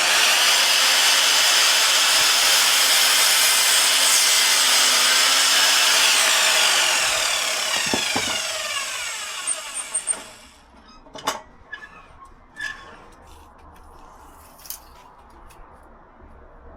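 Electric power saw cutting a wooden ceiling panel. It starts suddenly, runs loud and steady for about six and a half seconds, then winds down with a falling whine over about four seconds once switched off. A few sharp knocks follow.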